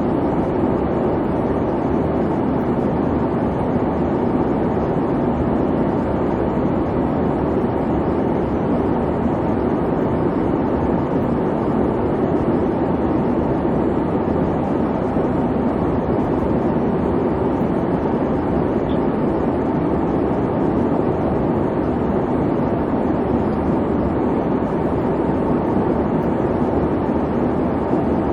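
Airliner cabin noise in flight: a steady, even rumble and hum of engines and airflow, with its weight in the low and middle range.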